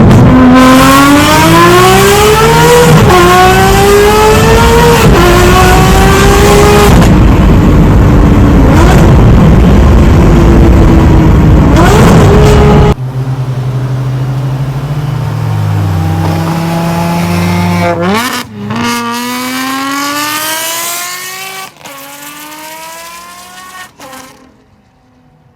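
Ferrari 599's 6.0-litre V12 with headers and a full race exhaust, accelerating hard. Its pitch climbs and drops back with each upshift. About halfway through the sound falls off sharply, and further runs through the gears grow fainter towards the end.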